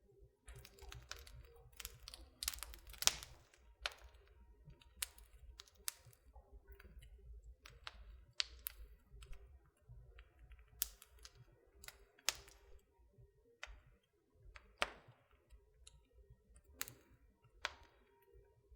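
Wood fire crackling in a fireplace: irregular sharp pops and snaps, the loudest about three seconds in, over a soft low rumble.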